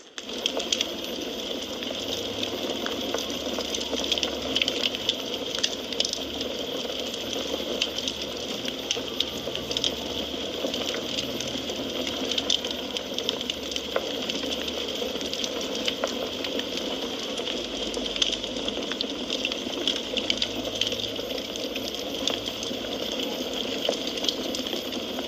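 Wood fire crackling in a fireplace: a steady hiss of burning with frequent small, sharp pops and snaps scattered irregularly throughout.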